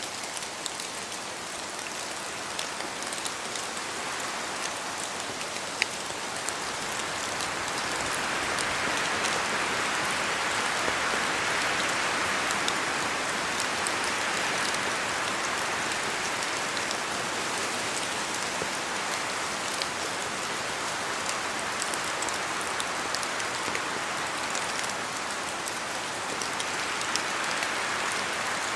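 Steady rain falling on forest foliage, a dense rush with scattered individual drops ticking through it. The rush swells for several seconds about a third of the way in and again near the end.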